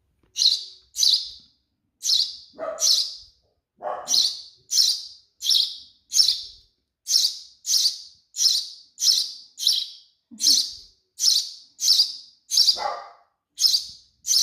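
Baby sparrow giving its begging call, a steady series of short high chirps about one and a half a second, asking to be fed.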